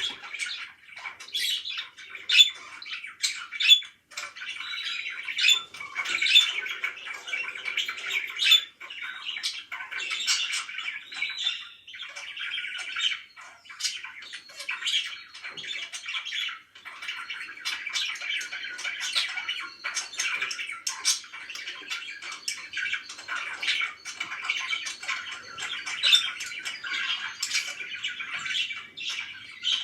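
Pet parakeets chattering without a break, with frequent short, sharp squawks.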